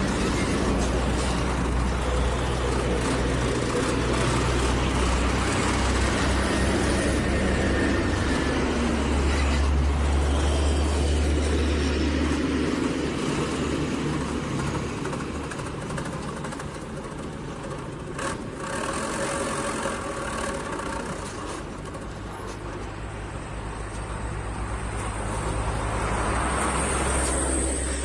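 Diesel engines of light dump trucks running at a loading site, a steady low rumble that is loudest for the first dozen seconds, eases off through the middle and builds again near the end. A single short knock sounds partway through.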